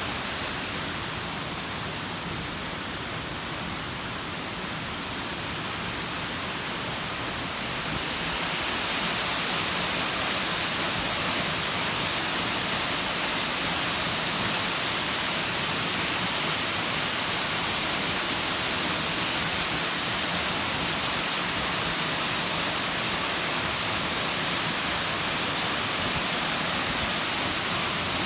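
A waterfall dropping about 15 m down a rock face into a pool, a steady rushing of water. It gets louder and brighter about eight seconds in, then holds steady.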